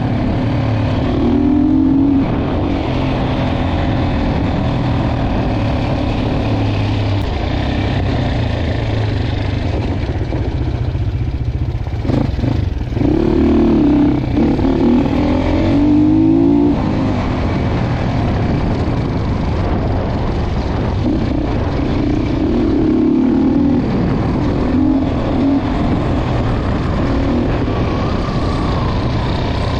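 Dirt bike engine running as the bike is ridden down a trail, its note rising and falling with the throttle, stronger about a second in, again about 13 to 17 seconds in, and once more around 21 to 25 seconds in.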